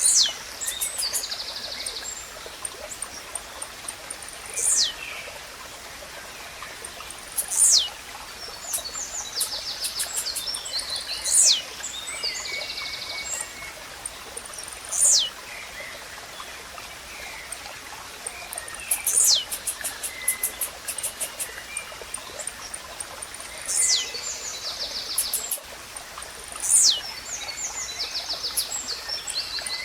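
Blue-black grassquit (tizil) singing: a short, sharp note sweeping down in pitch, repeated about every four seconds, over the steady trickle of a stream. Other birds and insects add buzzy, pulsed calls between the songs.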